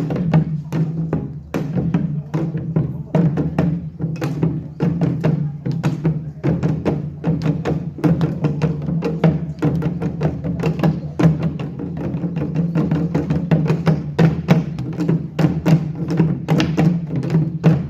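Korean pungmul percussion ensemble playing a fast, dense run of drum and gong strikes over a steady low tone.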